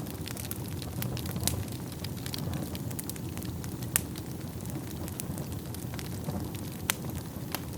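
Wood fire burning in a fireplace: a steady low roar of flames under irregular sharp crackles and pops from the burning wood, the loudest pops coming about a second and a half in, at four seconds and near seven seconds.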